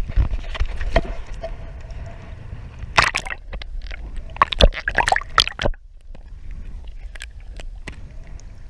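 Water splashing and sloshing, with clusters of sharp knocks about three seconds in and again from about four and a half to five and a half seconds in, and wind rumbling on the microphone at the start.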